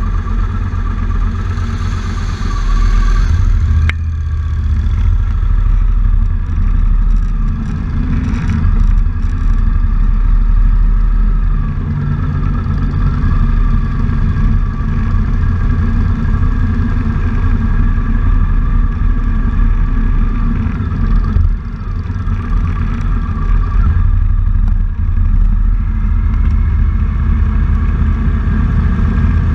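Motorcycle engine running at low riding speed, heard from on the bike, a steady low rumble that rises and dips slightly with the throttle.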